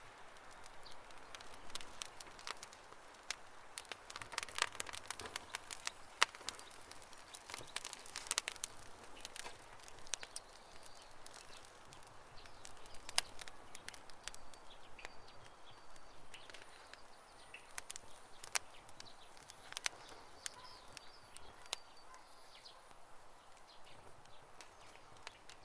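Campfire crackling, with irregular sharp pops and snaps of burning wood over a soft hiss.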